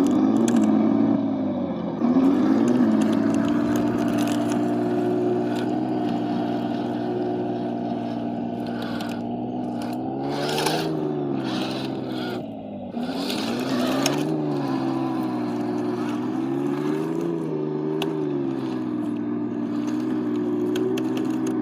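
Tractor engine running, its pitch rising and falling several times as it speeds up and slows down. Sharp clicks and scrapes come through about halfway in.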